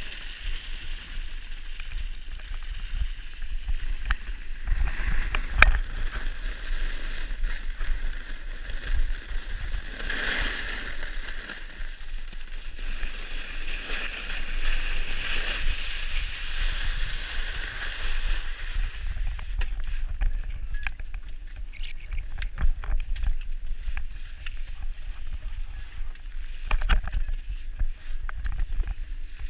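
A steady hiss of something sliding over snow, with a low rumble of wind on the microphone. The hiss fades about two-thirds of the way through, leaving scattered clicks and knocks.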